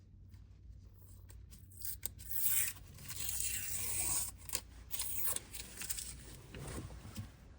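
Protective paper being peeled off an acrylic (PMMA) sheet: a ripping hiss with scattered small clicks, loudest from about two to five seconds in.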